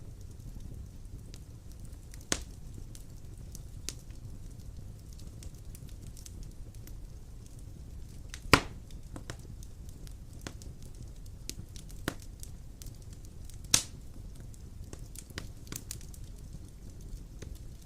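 Large logs burning in a fireplace: a steady low rumble of the flames with scattered small crackles and a few sharp pops, the loudest about halfway through.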